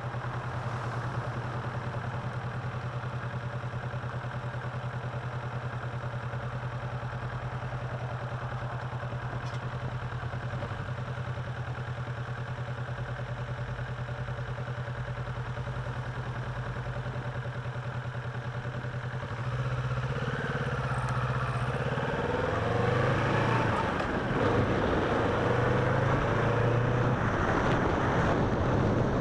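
Motorcycle engine idling steadily, then about two-thirds of the way through it gets louder and revs up and down as the bike rides off.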